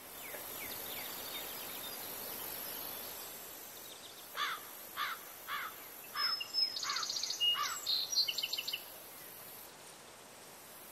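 Outdoor ambience with a steady hiss. About four seconds in, a bird repeats a short call six or seven times, roughly two-thirds of a second apart, with higher chirps and trills over it, and the calls stop a little before the end.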